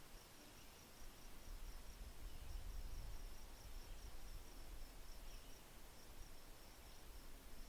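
Crickets chirping in a steady, high-pitched pulsed trill, several chirps a second, over a low rumble that swells in the middle.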